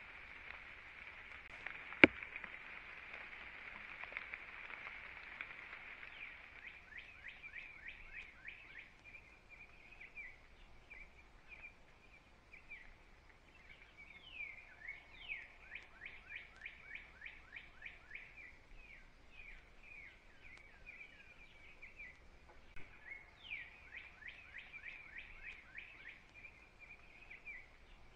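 For the first few seconds a steady high-pitched drone, with one sharp click about two seconds in. Then a bird calls: quick series of down-slurred chirps, several a second, in bouts of a few seconds each.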